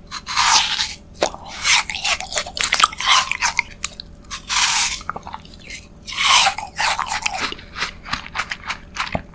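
Close-up biting and chewing of a watermelon sherbet ice bar: repeated crunchy, icy bites and chews, coming in bursts about a second apart.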